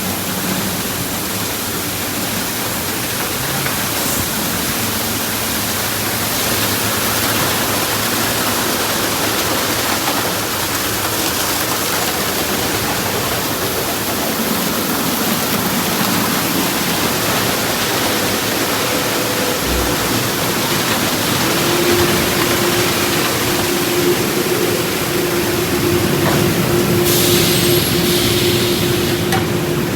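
Ryko Rocket automatic car wash spraying water over the car, heard from inside the car as a steady heavy hiss. About two-thirds of the way through, a steady hum from the wash machinery joins it.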